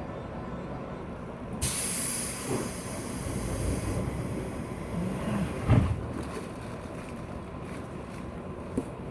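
Compressed air hissing out of a JR West 201-series electric train's air system: it starts suddenly about one and a half seconds in and fades away over several seconds, with a couple of heavy thumps around the middle and a sharp click near the end.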